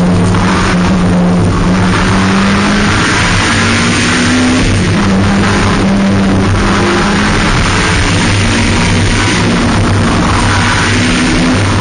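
Racing car engine heard loud from inside the stripped cabin, driven hard with the revs repeatedly climbing and dropping as it accelerates and lifts between slalom cones.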